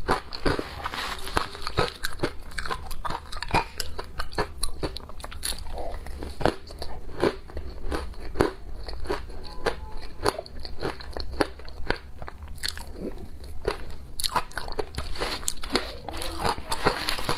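Ice being bitten and chewed: a rapid, irregular run of crisp crunches and cracks between the teeth.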